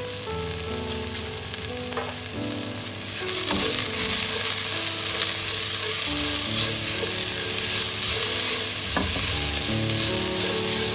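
Onion frying in hot oil in a pan, sizzling steadily while it is stirred, with a few scrapes of the spoon against the pan. The sizzle gets louder about three seconds in.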